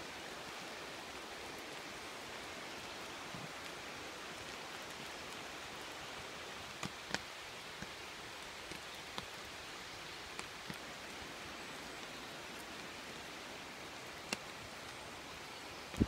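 Steady rain falling, a continuous hiss, with occasional louder single drops tapping close by.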